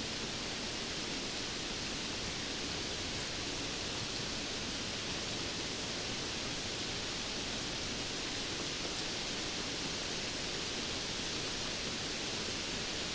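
Steady rainfall, an even hiss with no separate drops, thunder or changes in level.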